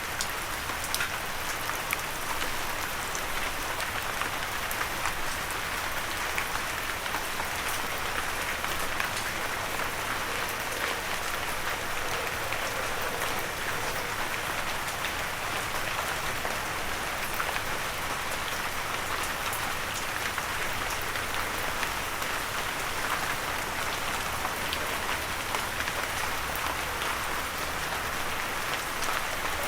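Steady light rain falling, an even hiss with many small drop ticks and no thunder.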